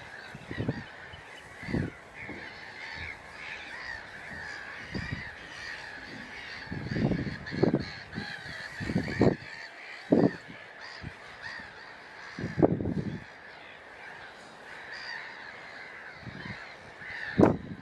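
A flock of waterbirds calling: a continuous chatter of many birds, with repeated louder low honking calls at irregular intervals.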